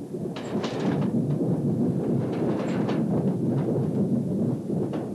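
Slam-door electric multiple unit passing at speed: a steady rumble of wheels on the rails, broken by irregular sharp clicks and clacks from the wheels.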